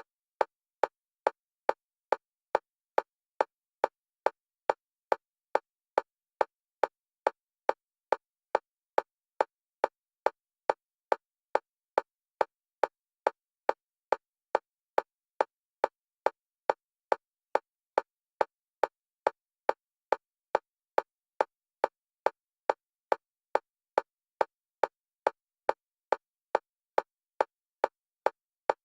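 Electronic metronome clicks for EMDR bilateral stimulation, short identical clicks at a steady fast pace of about two a second, alternating between the left and right stereo channels.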